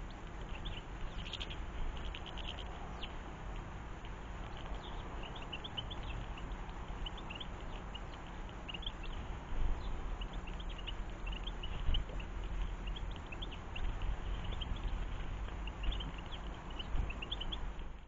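Small garden birds chirping: many short high chirps, often in quick runs, over a steady low rumble with a few soft knocks.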